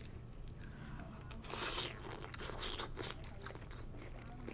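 Close-miked chewing of a mouthful of pho with fresh bean sprouts: crisp crunches and wet mouth clicks, with a louder noisy stretch about a second and a half in.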